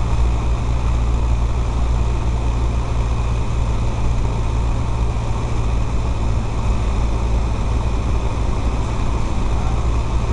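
Cessna 152's four-cylinder Lycoming O-235 engine and propeller running steadily, a constant loud drone with no change in pitch.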